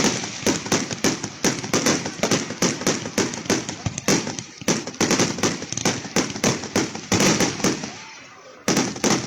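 Fireworks display: a rapid, dense string of bangs and crackles, several a second, that thins out briefly about eight seconds in and then resumes.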